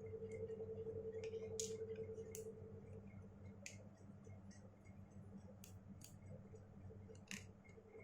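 Faint, scattered clicks and ticks of a small screwdriver working the two bottom screws of an iPhone 6S Plus, over a steady low hum whose higher tone drops away about three seconds in.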